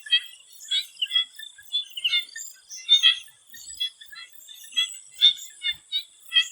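Swamp frogs calling in a run of short, repeated calls, about two a second, over a steady high-pitched whine.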